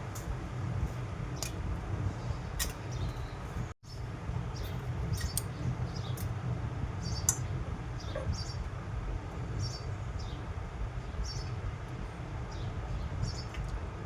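Short high chirps, typical of small birds, repeating every second or so over a steady low rumble; the sound cuts out for an instant about four seconds in.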